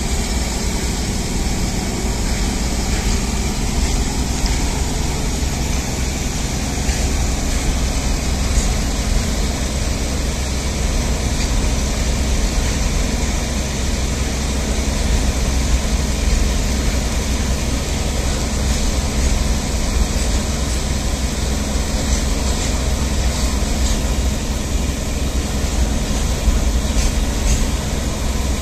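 Double-stack container freight wagons rolling steadily past, with the continuous rumble and rattle of steel wheels on the rails.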